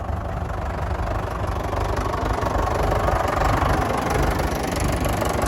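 Fordson Major tractor engine running, a steady low rumble that grows slowly louder.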